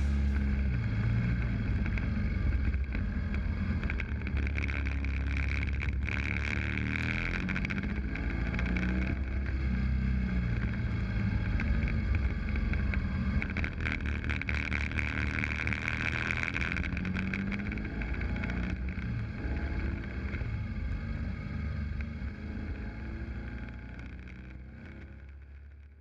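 BMW R1200GS boxer-twin engine running under way, with steady wind noise; its pitch rises and falls slowly with the throttle, and the sound fades out over the last few seconds.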